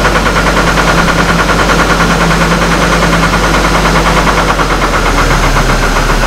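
Hummer H3 engine running with a rhythmic, uneven pulse just after a restart on a little throttle; its low note drops away about two-thirds of the way through. The engine has a rough-idle and stalling fault.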